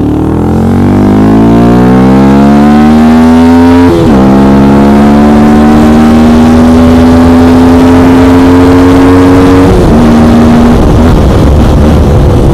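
Yamaha R15's single-cylinder engine accelerating hard through the gears: the revs climb steeply, dip sharply at an upshift about four seconds in, then climb more slowly in the next gear until they fall away about ten seconds in. Wind noise runs underneath.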